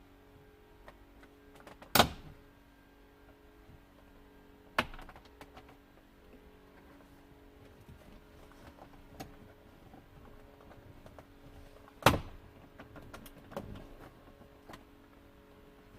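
Hands and tools working on a car's dashboard trim: three sharp clicks or knocks about two, five and twelve seconds in, with small ticks and taps between them. A faint steady hum runs underneath.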